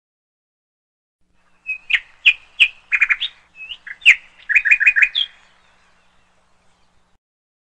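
A bird chirping and whistling: sharp clear notes start about two seconds in, include a quick run of five notes, and stop a little after five seconds.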